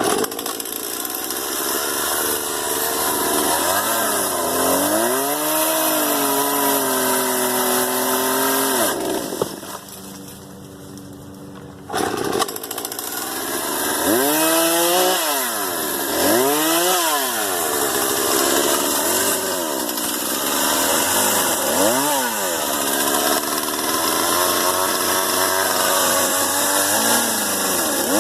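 Gas chainsaw cutting a tree, its engine pitch dropping under load and recovering. It eases off for about three seconds near the middle, then comes back in and bogs down and picks up several times in quick succession as it cuts.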